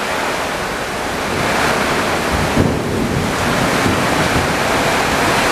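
Strong storm wind rushing and buffeting the microphone, a steady roar of noise that grows a little stronger about a second and a half in.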